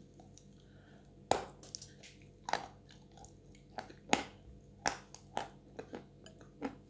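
Mouth eating a Chuy edible clay tile soaked in clay paste: irregular sharp wet clicks and lip smacks as it is bitten and sucked. The soaked clay makes practically no crunch.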